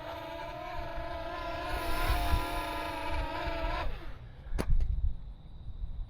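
Mini quadcopter's motors and propellers whining in flight, the pitch wavering, then the motors cut out about four seconds in and spin down with a falling whine as the drone drops; a sharp knock follows as it hits the ground.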